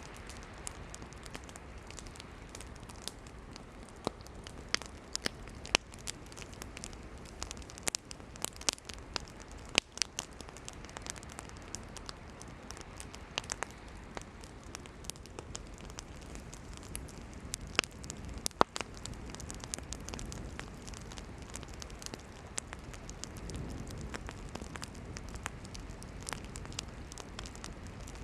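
Wood campfire burning steadily with a low hiss and irregular sharp crackles and pops of the firewood, a few of them standing out louder than the rest.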